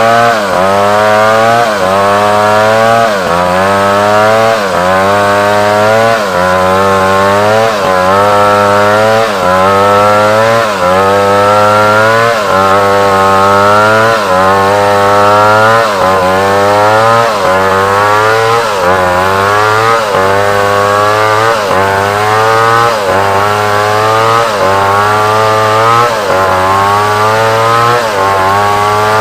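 Large chainsaw running at high revs while cutting African wood. Its engine note sags and recovers about once a second as the bar bites and is worked through the cut.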